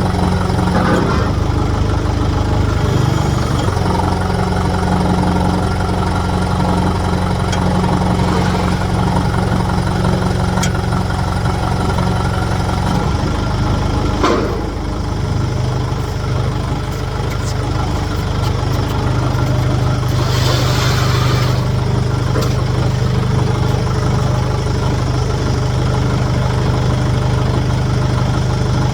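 An engine running steadily, its pitch stepping down a little about 13 seconds in, with a short hiss about 20 seconds in.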